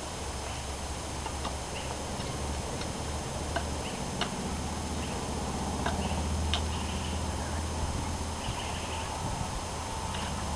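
Bark being pried and scraped off a log with a hand tool: irregular sharp clicks and knocks, a dozen or so, with short scraping sounds between them. A steady low hum runs underneath.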